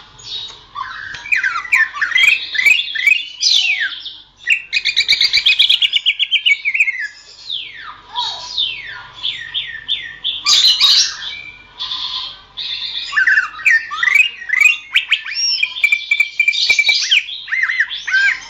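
Green leafbird (cucak ijo) singing a fast, varied song of sliding whistles, chattering note runs and trills, almost without pause, with brief lulls around a third and two-thirds of the way through.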